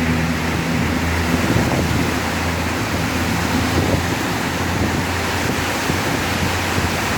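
Very heavy rain falling, a steady loud hiss, with a low hum that fades out in the first couple of seconds.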